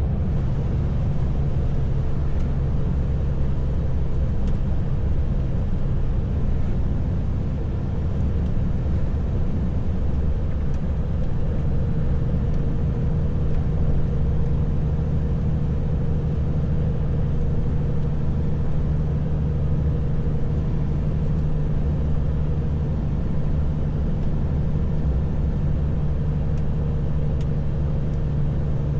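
Heavy truck's diesel engine and tyres droning steadily on the road, a low hum whose engine note grows a little stronger about twelve seconds in.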